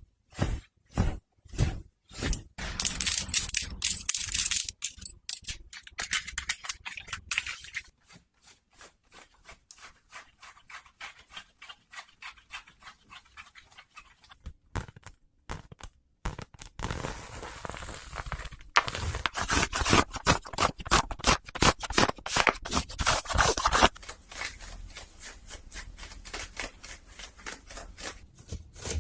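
Close-miked ASMR scratching and rubbing: quick runs of short strokes, with louder, denser stretches early and again past the middle.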